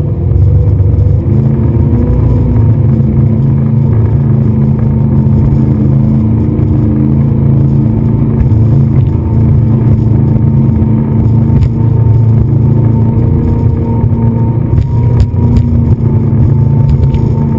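Speedboat engine running steadily at speed: a loud, constant low rumble with a steady drone over it.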